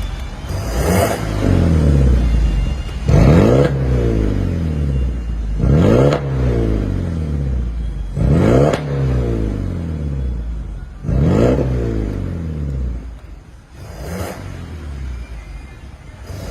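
BMW E90 320i's four-cylinder Valvetronic petrol engine revved in repeated throttle blips through an aftermarket A Performance cat-back exhaust. Each blip rises sharply and falls back to idle, about every two and a half seconds, and the last couple are smaller.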